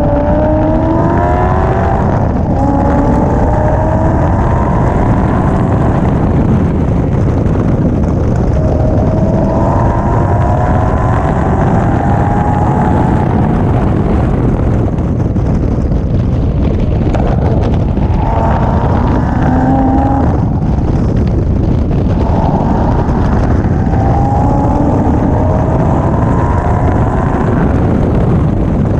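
Car engine heard from an onboard camera on a race track, climbing in pitch under load again and again and dropping back between climbs, under a heavy rumble of wind on the microphone.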